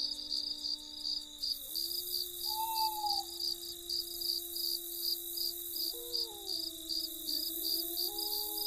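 Crickets chirping at night, a steady high trill with evenly pulsed chirps about two to three times a second, over low held tones that shift in pitch every few seconds.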